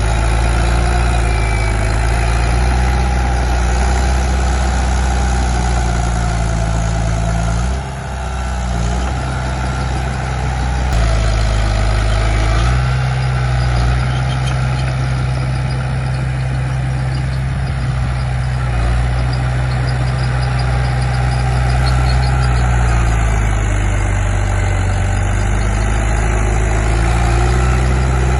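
Komatsu D31P bulldozer's diesel engine running under load. Its engine speed drops briefly about eight seconds in, rises again a few seconds later, and eases off again near the end.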